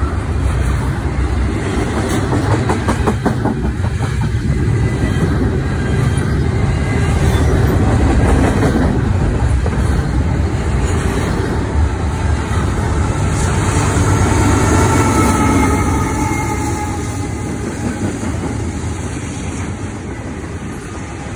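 Double-stack intermodal container freight train rolling past at close range: a steady rumble of loaded well cars, with wheels clacking over rail joints and a faint high squeal drifting in and out in the second half.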